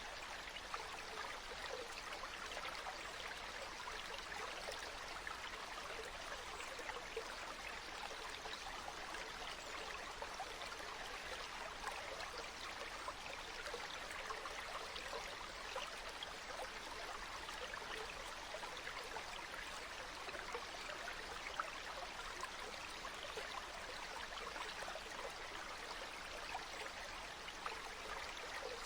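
Flowing water: a steady, even rush with fine trickling detail and no breaks.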